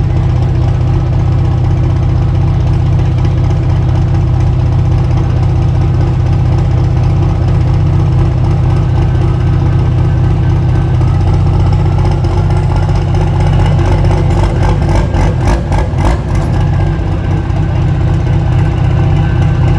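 Big pulling-tractor engine running loud and steady at idle, with a burst of fast rattling about fifteen seconds in.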